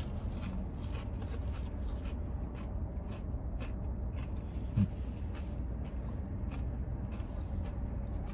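Chewing of a crispy breaded onion ring: irregular small crunching clicks over a steady low rumble, with one short low hum about five seconds in.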